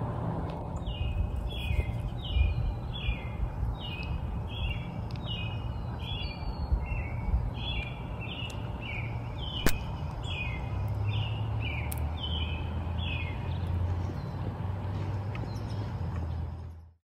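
Wild songbird calling a long, steady run of short chirps that each slide downward, over a low outdoor rumble; the chirping stops a few seconds before the end, with one sharp click near the middle.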